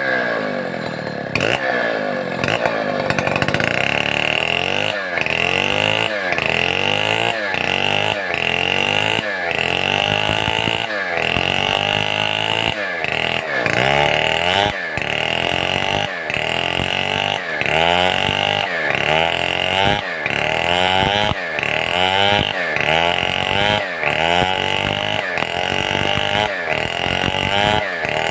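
Stihl 070 two-stroke chainsaw running hard at high revs. Its pitch dips and picks back up about once a second, over and over.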